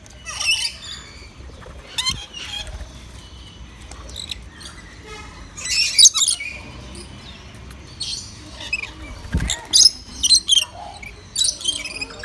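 Birds chirping and calling in short bursts of high chirps every second or two, with a brief low thump about nine seconds in.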